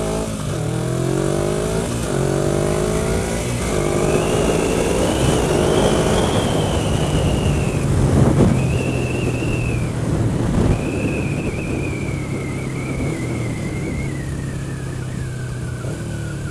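Motorcycle accelerating through the gears. The engine pitch climbs and drops back at each shift over the first few seconds, then the bike runs on at speed with wind rush and a high whine that rises and then slowly falls.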